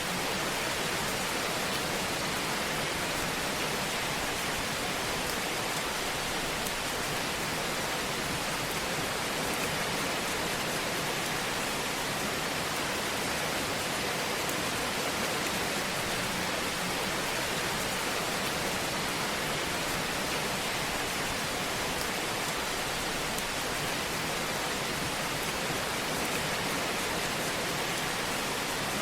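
Fire burning in a fireplace: a steady, even hiss with a few faint, sparse crackles.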